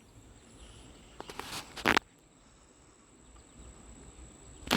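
Rubbing, creaking and clicking of a phone being handled in a loose, squeaky case, loudest just before two seconds in, with a click near the end. A faint steady high tone runs underneath.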